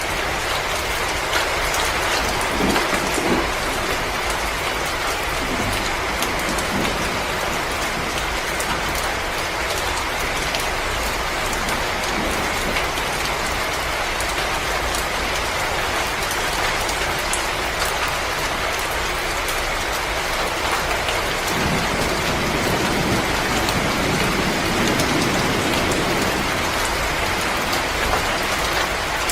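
Wood fire crackling steadily in a fireplace: a dense, even hiss with many small pops and snaps throughout.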